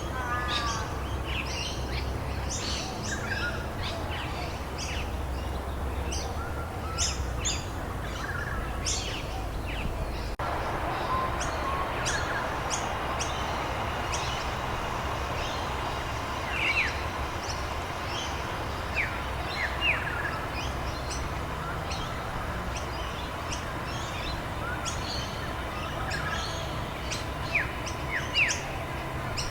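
Many small birds chirping and calling, with quick, sharp notes throughout, over a steady hiss of rain. About ten seconds in, the background changes abruptly.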